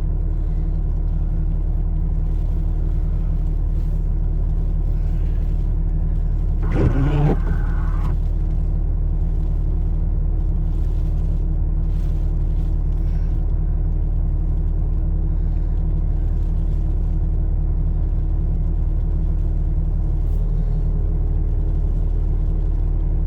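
Vehicle engine idling steadily, heard from inside the cab, with a brief louder sound about seven seconds in.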